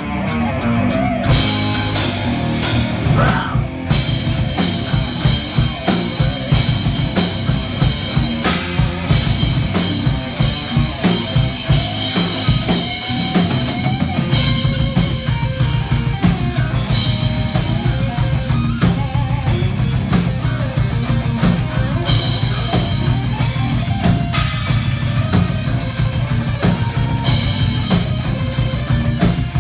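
Metal band playing live: drum kit and guitar at full volume, with steady drum hits. About halfway through, the drumming turns faster and denser.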